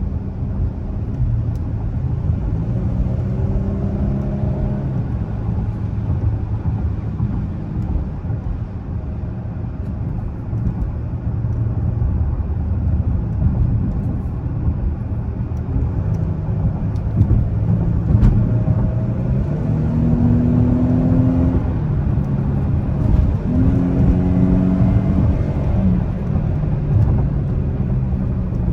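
Dodge Charger's 3.6-litre V6 engine under way, pulling with its pitch rising three times, over a steady low rumble of road noise.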